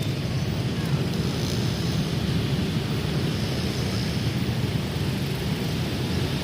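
Passenger train running by with a steady low rumble and rushing noise, with no distinct clanks or horn.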